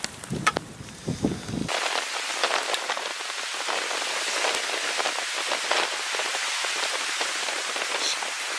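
Rain pattering steadily on a surface, a dense stream of small drop impacts that starts abruptly about a second and a half in. Before that there are only a few scattered knocks.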